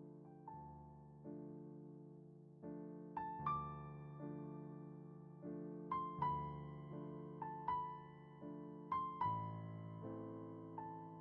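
Slow, soft relaxing piano music: gentle held chords with single high notes struck over them, a new note or chord every second or so.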